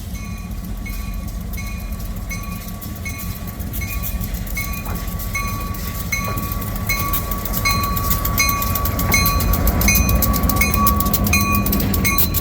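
A train approaching with a bell ringing steadily about twice a second. Its low rumble and the clatter of wheels on rail grow louder toward the end.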